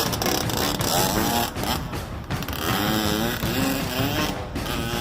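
Dirt bike engine running and revving, its pitch rising and falling repeatedly.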